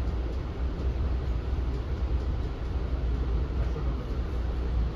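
Steady running noise of an NJ Transit Bombardier MultiLevel passenger coach moving at speed, heard from inside the cabin: a low, even rumble of wheels on rail with a hiss over it.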